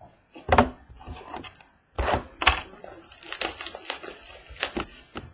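Small boxes of trading cards being handled and set down on a table: a run of sharp knocks and clicks, the loudest about half a second in and again around two seconds in.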